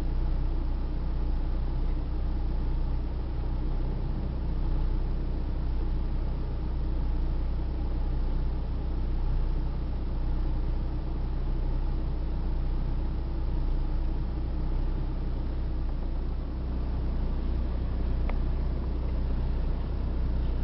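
Blizzard wind blowing steadily, heard as a deep low rumble with a fainter hiss above it.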